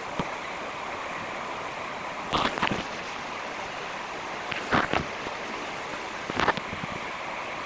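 Steady background hiss with a few short scratchy drawing strokes on paper, each a brief cluster of scrapes, coming every couple of seconds.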